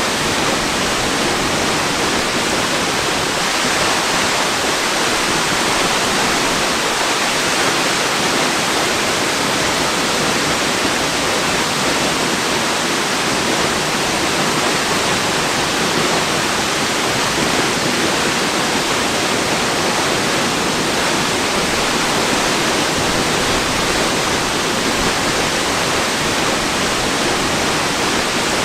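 Waterfall rushing, a steady even roar of falling water with no changes.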